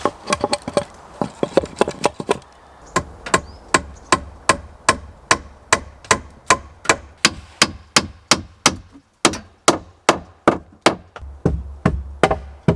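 Axe chopping wood to trim a split slab into a shelf: a few uneven knocks, then about two and a half sharp blows a second.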